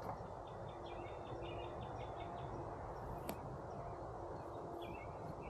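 A songbird sings a quick string of chirped notes, with more chirps near the end, over a faint steady hum of honey bees. There is one sharp click a little after three seconds in.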